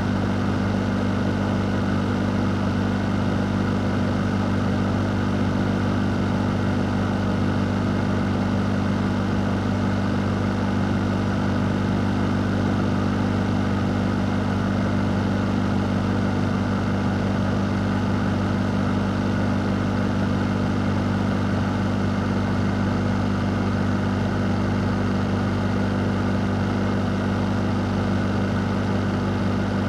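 Fan running steadily: an even rush of air over a constant low hum, unchanging throughout.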